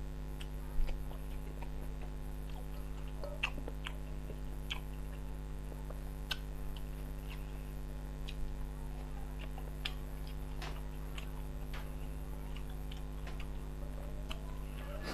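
A person chewing rice and banana-blossom curry eaten by hand, with irregular wet mouth clicks and smacks. A steady low hum runs underneath.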